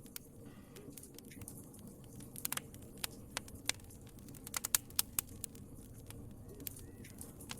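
Wood fire crackling: sharp, irregular pops and snaps, a cluster of them about halfway through, over a low steady rumble of the flames.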